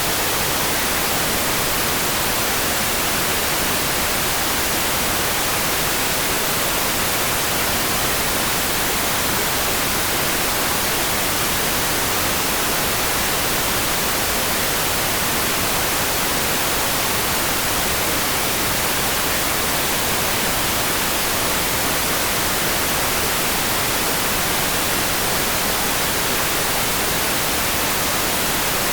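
Steady rain sound: a constant, even hiss with no single drops, gusts or changes standing out.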